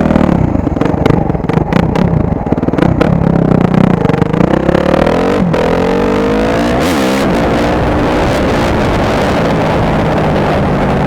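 2014 Suzuki RMZ250's single-cylinder four-stroke engine revving. Its pitch climbs and drops repeatedly through gear changes, with a sharp dip about five and a half seconds in, then it settles into a steadier, lower drone for the last few seconds.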